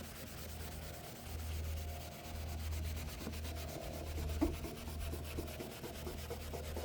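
Scrubbing pad from a Meguiar's headlight restoration kit rubbed back and forth by hand over a plastic headlight lens to take off oxidation, in strokes of about a second each.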